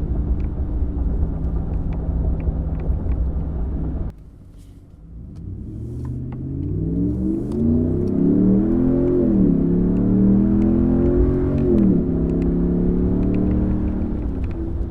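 Ram 1500's 5.7 HEMI V8 through a Borla S-Type cat-back exhaust, heard from inside the cabin while driving. It drones steadily at cruise, then after a sudden cut the truck accelerates hard, its note rising and falling back twice as the transmission shifts up before settling into a steady cruise.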